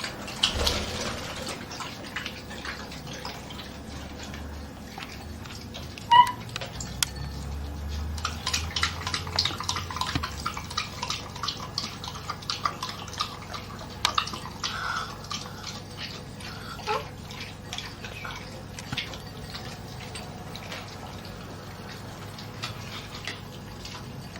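A dog and a parrot drinking milk from a dish: rapid wet lapping and small clicks, with one short high squeak about six seconds in.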